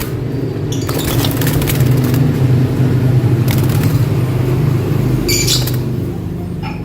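Lovebirds fluttering and scuffling in a cage over a steady low hum, with a short burst of high chirps about five seconds in.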